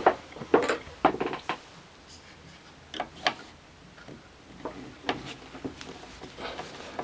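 Scattered clicks and knocks of hands and tools working on the plastic parts and belts inside an opened Panasonic NV366 VCR, with a cluster of louder knocks in the first second and a half and smaller ones after.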